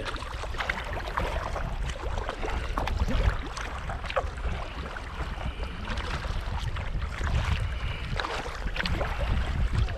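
Kayak being paddled on open lake water: irregular splashes and drips from the paddle blades and water lapping at the hull, with a low wind rumble on the microphone.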